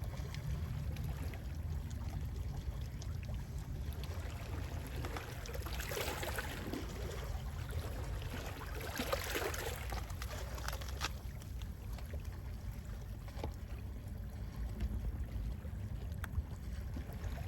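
Gentle sea waves washing in, with two stronger swells of surf hiss about six and nine seconds in, over a steady low rumble of sea wind.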